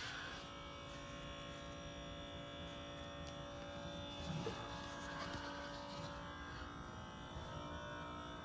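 Vacuum cleaner motor running with a steady electric buzz of several held tones, with a couple of faint knocks around the middle. The owner calls the machine defective.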